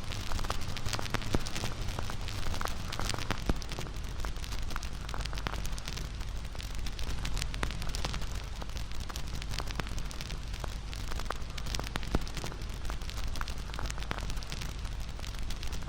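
Wood campfire burning, with a steady rush of flame and frequent small crackles and pops of burning wood.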